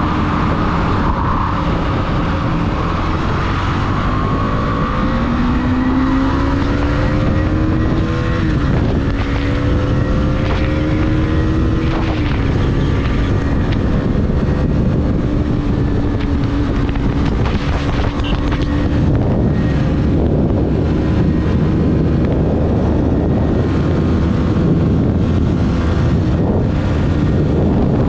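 KTM 250 Duke's single-cylinder engine accelerating hard at high revs, its pitch rising and then dropping twice as it shifts up, then holding steady near top speed. Heavy wind rush over the microphone grows as the engine note fades into it.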